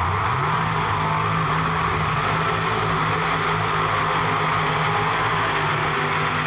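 A car engine rises in revs in the first half second, then holds a steady high drone.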